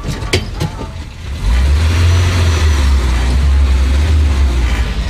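A car engine revving hard close by, loud and low, starting about a second and a half in and easing off near the end. A few sharp knocks come before it in the first second.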